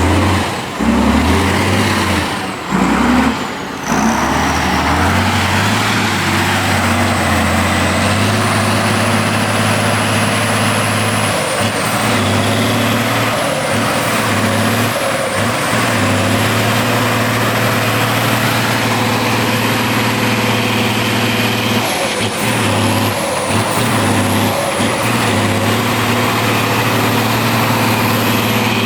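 Heavy off-road trial truck's engine running steadily under load, with a thin high whine wavering up and down above it.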